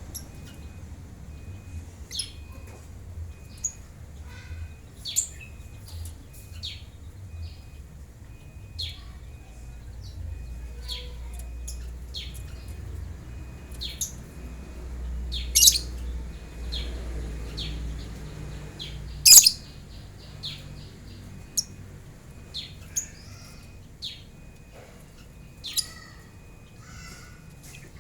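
Lovebirds giving short, shrill, high-pitched chirps at irregular intervals, with two much louder calls past the middle.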